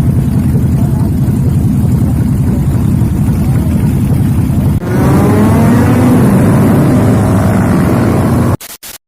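Motorcycle engines: a steady, loud rumble of riding noise, then after a cut about five seconds in, a bike accelerating with its pitch climbing through the gears. The sound cuts off suddenly just before the end.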